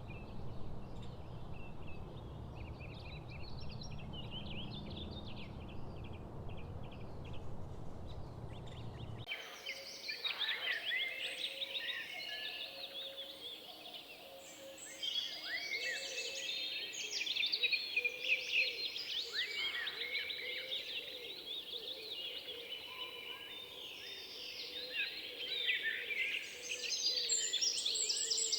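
Songbirds singing. For the first nine seconds, scattered calls sound over a low steady rumble. Then the sound changes abruptly to a dense chorus of many birds calling over one another.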